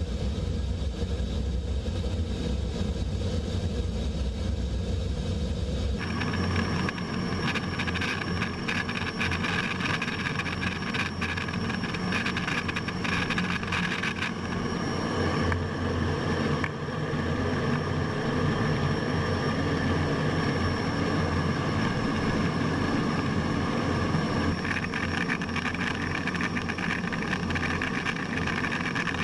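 Steady jet aircraft engine noise that changes abruptly about six seconds in: the deep rumble drops away, the higher noise grows, and a thin high whine comes in.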